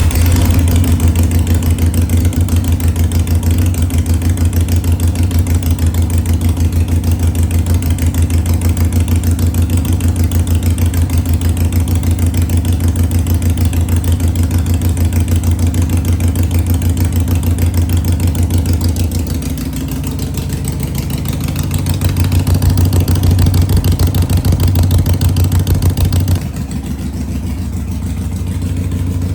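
Harley-Davidson Sportster 883's air-cooled V-twin, freshly started, idling with a loud, lumpy, evenly pulsing exhaust beat through open pipes with no baffles. Its level dips a little about 19 seconds in, picks up again, then drops abruptly near the end.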